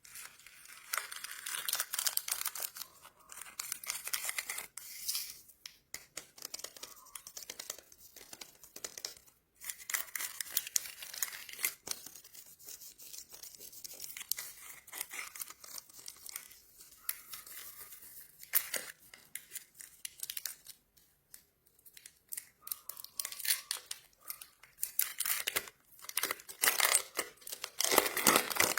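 Plastic candy wrappers being crinkled and torn open by hand, a dense crackling in uneven bursts with short pauses, starting suddenly.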